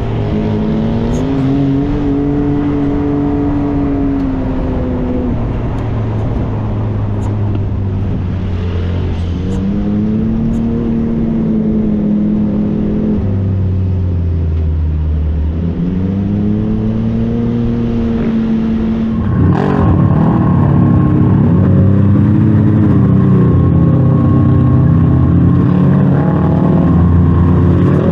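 Side-by-side UTV engine running under load, its pitch rising and falling several times as the throttle goes on and off. About two-thirds of the way in it steps up louder and rougher, with more engine noise layered over it.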